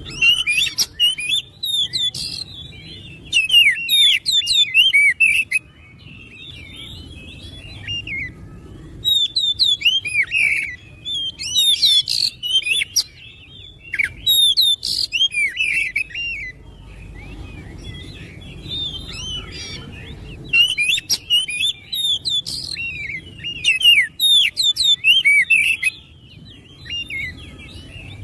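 Oriental magpie-robin singing in bursts of rapid, varied whistled and chattering notes, with short pauses between phrases.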